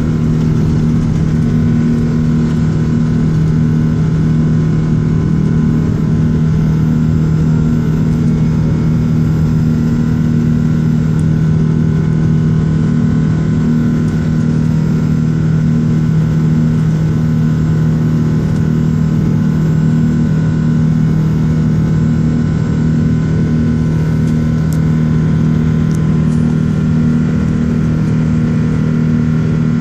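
Airbus A380's engines giving a steady, loud low drone with a constant hum, no rise or fall in pitch or level.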